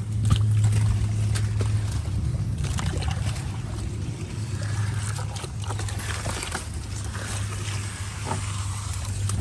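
Kayak gliding through lily pads, the pads scraping and rustling along the hull in short scratchy bursts over a steady low hum.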